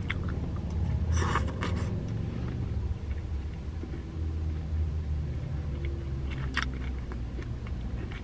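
Steady low rumble of a car idling, heard from inside the cabin, under a person chewing a mouthful of raw cabbage, with a short crunch about a second in and a small click near the end.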